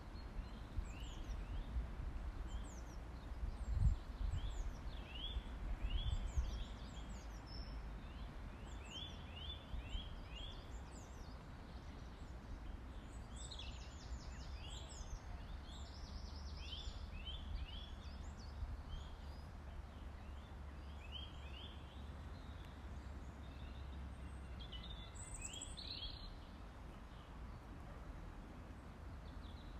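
Small birds chirping outdoors: many short, quick chirps that slide downward in pitch, repeated throughout, over a steady low rumble, with two dull thumps about four and six seconds in.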